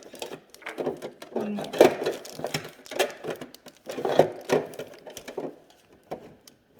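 Small plastic toy packaging being handled and opened: irregular crinkling and rustling with quick clicks and taps of plastic pieces.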